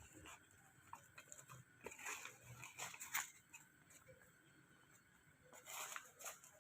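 Near silence with faint scattered clicks and short rustles from a spoon and spice containers being handled while spices are measured out.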